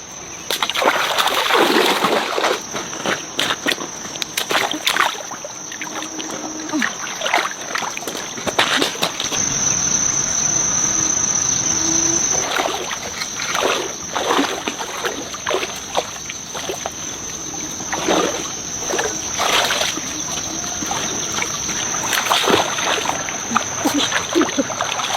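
A steady high-pitched insect drone, with irregular short knocks and splashy noises over it.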